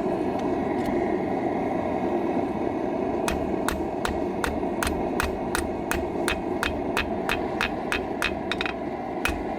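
Hammer blows on a hot horseshoe over an anvil, flattening it into a blade, about three strikes a second, starting after a pause of about three seconds. Under them runs the steady roar of the forge.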